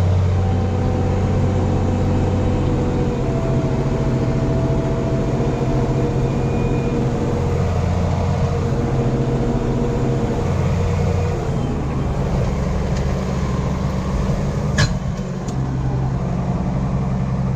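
Ford TW tractor's diesel engine running steadily under way, its note shifting a few times, with a thin whine over it for the first part. There is a single sharp click about three-quarters of the way through.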